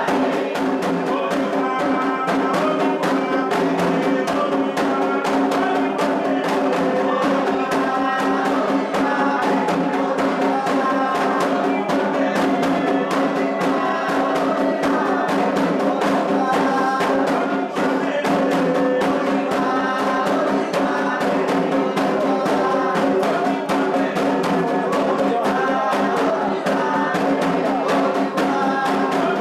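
Candomblé atabaque drums playing a steady, fast rhythm under a group singing a chant for the orixá Ewá, the drummed 'rum' for her dance.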